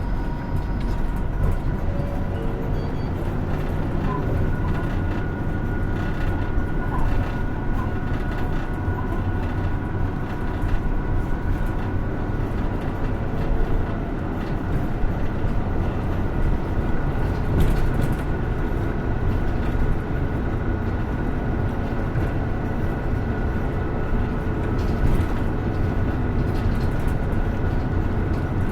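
Hino Rainbow II medium-size route bus heard from inside the cabin while driving: a steady diesel engine and road rumble with a faint high whine and scattered light rattles.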